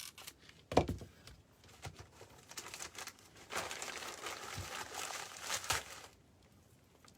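Dry excelsior (wood wool) rustling and crackling as it is handled and pressed down into a craft arrangement. A sharp knock about a second in is the loudest sound.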